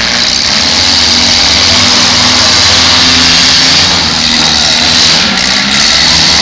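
Several demolition derby cars' engines running and revving together, loud and steady.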